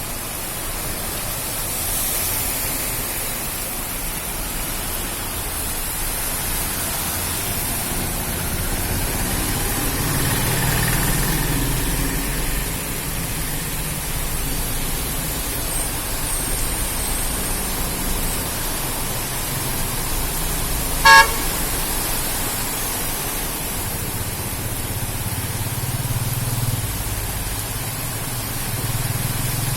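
Steady hiss of heavy rain, with vehicles passing on a wet road and rumbling louder twice. A car horn gives one short honk about two-thirds of the way through.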